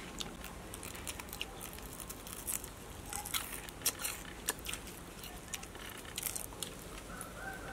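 Crunching of crispy deep-fried spiders being chewed: irregular sharp crackles, the loudest about halfway through.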